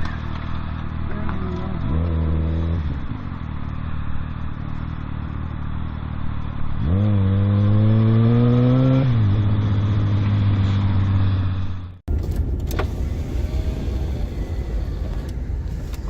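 Car engine running and accelerating: its pitch rises briefly about two seconds in, then again for about two seconds near the middle. About twelve seconds in it cuts abruptly to steady vehicle noise with a single sharp knock.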